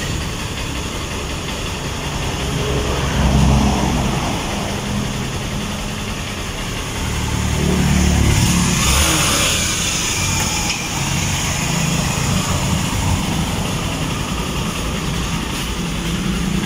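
Honda TMX Supremo 150 motorcycle's single-cylinder four-stroke engine idling, rising twice as the throttle is opened, about three seconds in and again around eight seconds. It runs smoothly and does not die under revving now that the carburetor has been cleaned and the water-contaminated gasoline replaced.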